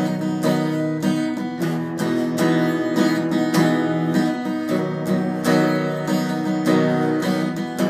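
Acoustic guitar strummed in a steady rhythm, playing the instrumental break between the chorus and the next verse of a country song.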